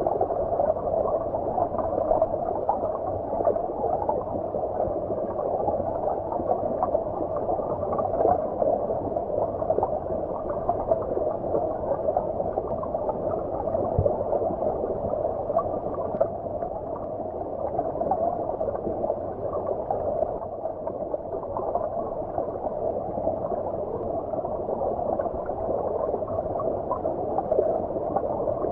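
Stream water flowing, heard underwater: a steady, muffled rush with the high end cut away.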